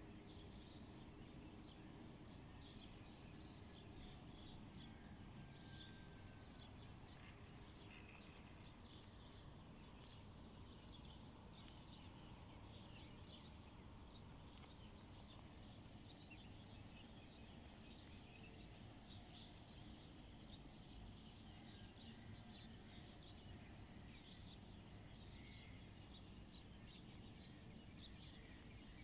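Faint outdoor background with many short, high bird chirps coming every second or so, a little busier near the end.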